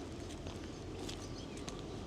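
Faint footsteps walking outdoors: a few soft, irregular steps over a low, steady background noise.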